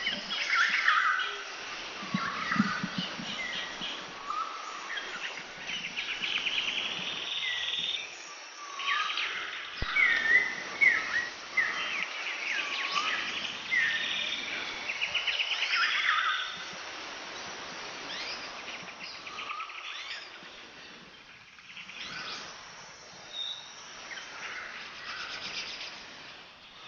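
Several birds chirping and trilling over a steady outdoor background hiss; the calls are busiest through the first half and thin out after about 17 seconds.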